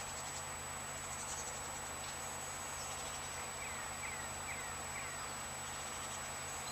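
Steady outdoor background hiss, with a small bird giving four short, falling chirps about halfway through.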